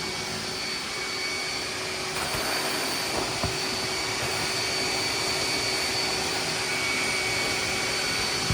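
Hoover wet/dry vac running with a steady whine while it sucks water out of a saturated, flooded rug into its wet tank.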